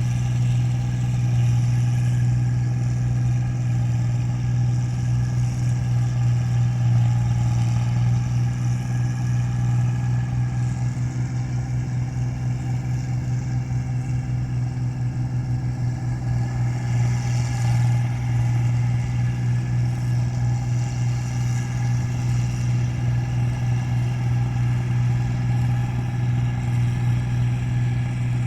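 Rice combine harvester's engine running steadily under load while cutting paddy, a constant low drone with no breaks.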